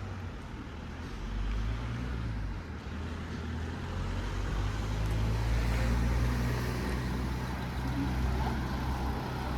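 A motor vehicle's engine running nearby with a steady low hum, growing louder over the first few seconds and easing slightly toward the end, over general street noise.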